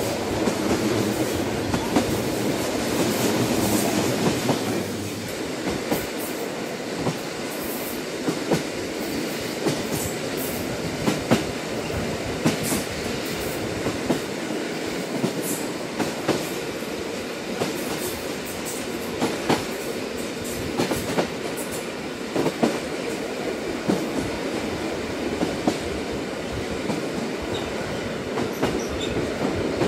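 Train running on rails: a steady rumble and hiss with irregular sharp clicks and knocks of the wheels over the track.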